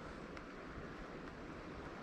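River water running over rock riffles: a steady rushing hiss, with one faint short tick about half a second in.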